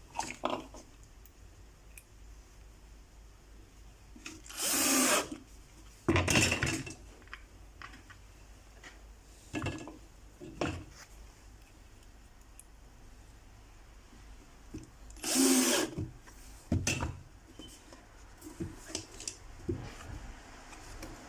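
Power drill driving screws into wood in several short bursts, the longest about a second each, with clicks and knocks from handling the pieces in between.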